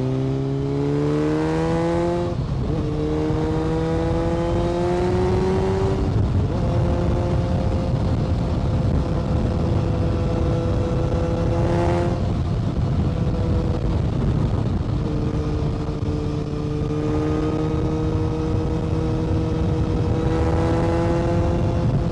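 Motorcycle engine under way, pitch climbing as it accelerates and dropping sharply at gear changes about two and six seconds in, then holding a fairly steady pitch with slow rises, over a heavy rushing wind and road rumble.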